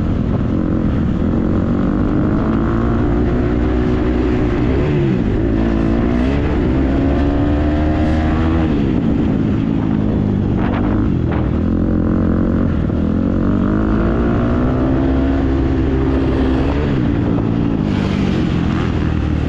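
Motocross bike engine being ridden hard, its pitch climbing and dropping several times with throttle and gear changes.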